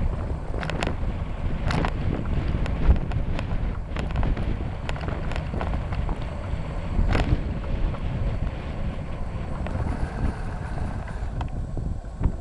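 Bicycle riding along a trail, heard from a handlebar-mounted camera: a steady rumble from the tyres with wind buffeting the microphone, and sharp rattles and clicks from the bike scattered throughout.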